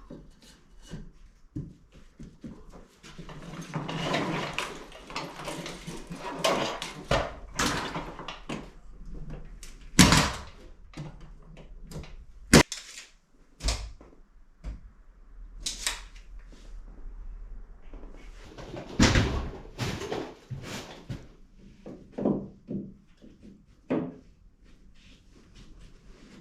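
Irregular knocks, thuds and scraping from indoor board-fitting work, with a few sharp, loud strikes spread through it.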